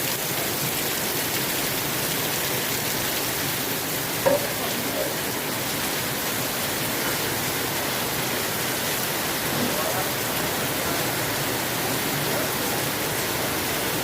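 Heavy rain pouring steadily during a storm, a dense even hiss, with one brief louder sound about four seconds in.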